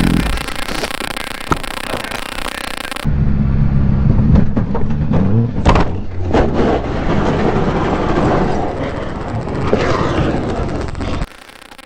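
A motorcycle engine running, then several sharp knocks and a long rough scraping noise, typical of a motorcycle going down and sliding along the road.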